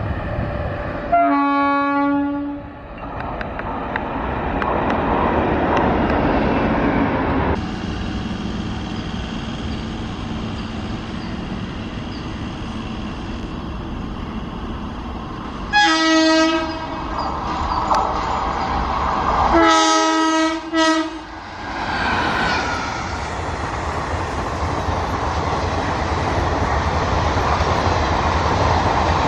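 Indian Railways electric locomotive horns sounding over the rumble of passing express trains: one blast about a second in, a short one just past the middle, then a longer blast with a brief break a few seconds later. Between the blasts, steady train running noise with wheels clicking over the rail joints as the coaches rush past.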